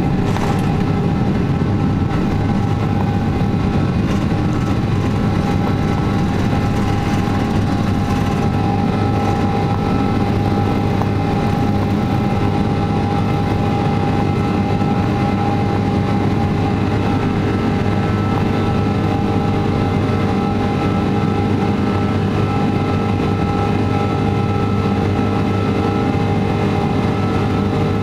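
Cabin noise of a Boeing 777-200ER with Rolls-Royce Trent engines at full power: a steady, loud jet engine drone with several held whining tones over a rush of air.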